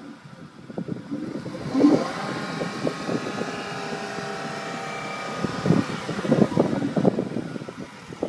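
Dodge Charger's V6 exhaust heard from behind the car: the engine is revved about two seconds in and held at raised revs for a few seconds, then falls back to an uneven, pulsing rumble.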